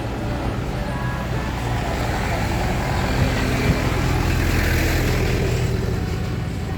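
A motor vehicle passing close by: a steady engine hum with road noise that swells to a peak about two-thirds of the way through, then eases off.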